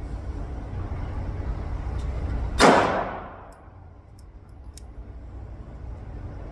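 A single pistol shot about two and a half seconds in, its echo dying away within about a second, over a steady low rumble. A few faint clicks follow.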